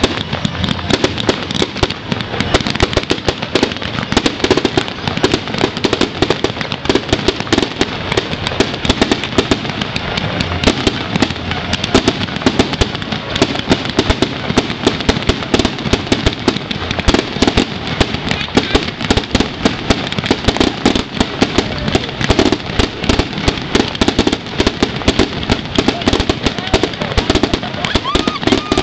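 Fireworks display going off in a continuous barrage of rapid pops, many bursts a second with no pause.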